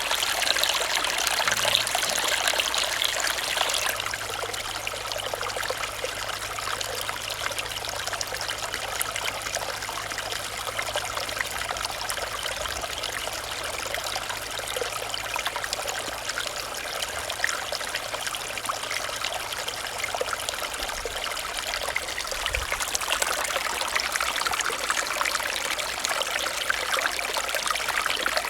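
Shallow stream running and trickling over stones, a steady babble, a little louder in the first few seconds and again near the end.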